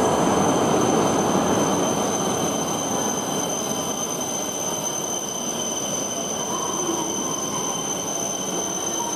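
E5 series shinkansen rolling slowly past along the platform: a steady rush of running noise with thin, steady high-pitched tones over it, easing off in loudness over the first few seconds.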